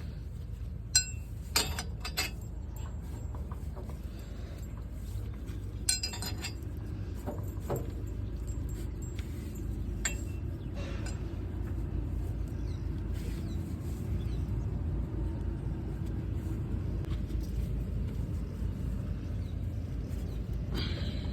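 Eicher 241 tractor's single-cylinder air-cooled diesel engine running with a steady low pulse, growing a little louder partway through. A few sharp metallic clinks come in the first six seconds.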